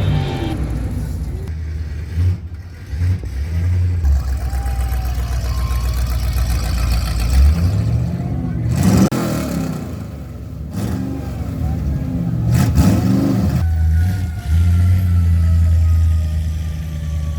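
Classic car engines rumbling low as the cars drive past, with an engine revving up briefly about nine seconds in and again around thirteen seconds.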